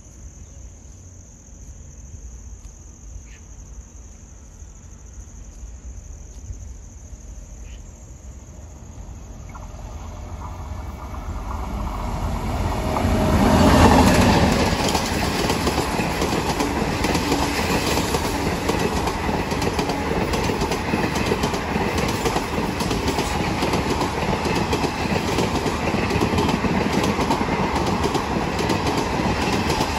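A passenger train approaching and passing close by at speed: a rising rush that peaks about halfway through as the front of the train goes by, then a steady rattle and clatter of the coaches over the rail joints.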